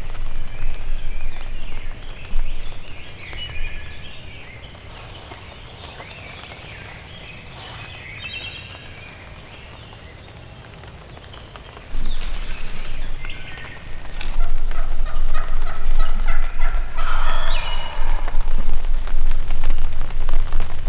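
Wild turkey gobbler gobbling several times, getting closer, the loudest gobbles near the end. Loud rustling noise with a few knocks runs under the second half.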